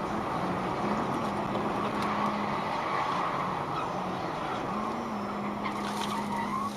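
A car driving on the road: steady engine and tyre noise with a faint low hum that rises and falls a little.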